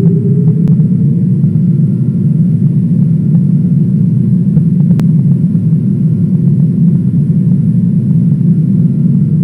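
Airliner cabin noise in flight: a steady, loud rumble of engines and airflow, with a droning engine tone that rises slightly at the start.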